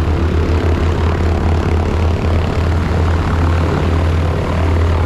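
Radial engine of a T-6 Texan warbird droning steadily and loud, a heavy low drone from its propeller and engine.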